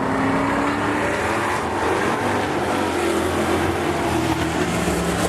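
Several demo race cars' engines running hard on the track at once, their pitches drifting slightly up and down as the cars race.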